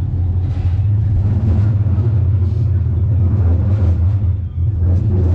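Steady low vehicle rumble, with a dip in level about four and a half seconds in.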